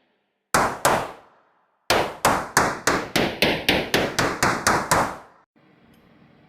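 Hammer blows knocking the pinion seal into a Dana 44 rear axle housing: two strikes, then a quick run of about fourteen ringing metallic strikes, roughly four a second.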